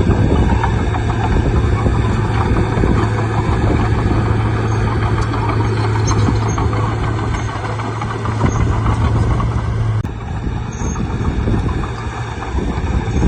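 Bulldozer's diesel engine running, with a steady low hum that drops out abruptly about ten seconds in.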